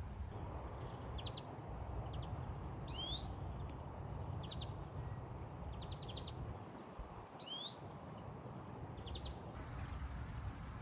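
Small birds chirping: short runs of three or four quick high chirps every second or so, with two rising slurred calls about three and eight seconds in, over a steady low rushing background.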